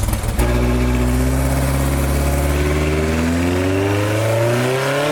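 Ford Formula 2000 race car's four-cylinder engine running super rich: it runs choppy for a moment, smooths into a steady run about half a second in, then the revs climb slowly near the end.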